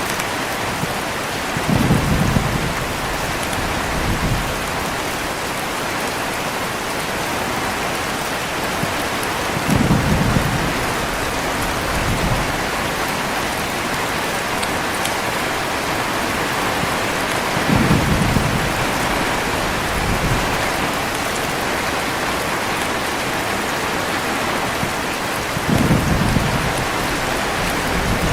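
Heavy rain falling steadily, with short low thunder rumbles four times, about eight seconds apart, each trailed by a fainter rumble.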